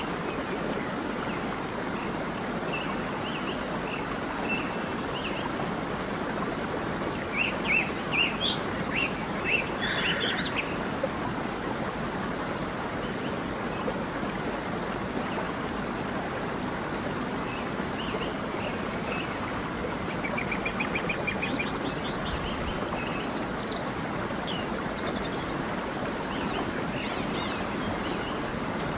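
Steady rush of a flowing stream with birds chirping over it, a flurry of chirps about eight to eleven seconds in and a quick trill around twenty-one seconds.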